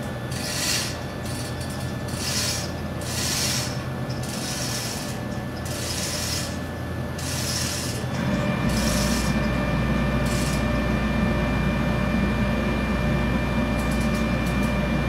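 Hand chain hoist being hauled in repeated pulls, its chain rattling through the block about every two-thirds of a second; it is lifting an engine's connecting rod to take up the bearing clearance for a dial-gauge reading. The pulls stop about ten seconds in, and a steady low machinery hum comes on shortly before that.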